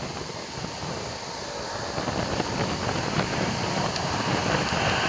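Jet engines of a wide-body airliner at takeoff power, an even rushing noise that grows steadily louder.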